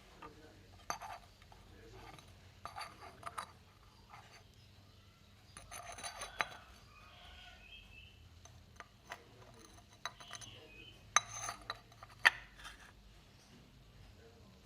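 Irregular clinks and knocks of hard objects being handled, with short clusters of clicks and two louder knocks about eleven and twelve seconds in.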